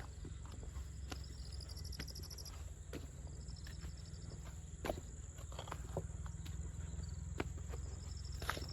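Footsteps of someone walking, about one step a second, over a steady high insect buzz and short, rapidly pulsed high chirps that come and go.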